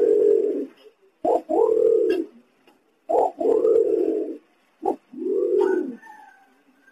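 Green imperial pigeon calling with deep, low coos. Each long coo is led by a short sharp note, and the pairs repeat about every two seconds.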